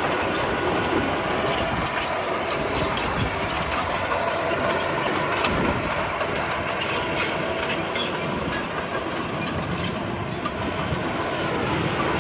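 Crawler bulldozer's diesel engine running steadily with the metallic clatter of its tracks.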